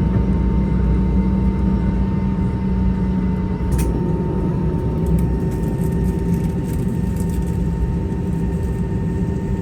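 Steady low engine drone heard from inside a vehicle, with a faint steady whine above it. A brief click about four seconds in.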